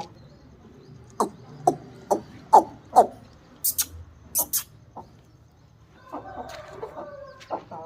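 Aseel chickens clucking: a run of about five short, loud clucks, each falling in pitch. They are followed by a few sharp clicks and then softer, wavering calls near the end.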